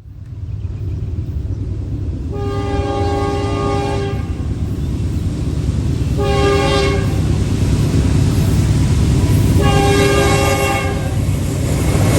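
Diesel locomotive horn sounding three blasts (long, short, long) over the steady rumble of a passing train.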